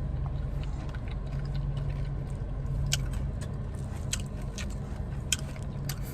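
Chewing and crunching of crispy fried chicken, heard as scattered sharp clicks and crunches over a steady low hum.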